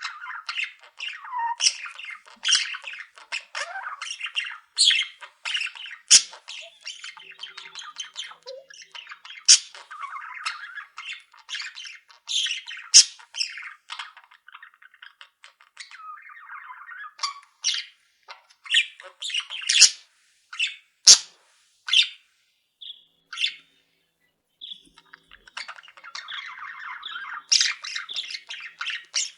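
Pet budgerigars chattering, a running warble broken by many short, sharp squawks and chirps, with a brief lull about two-thirds of the way through.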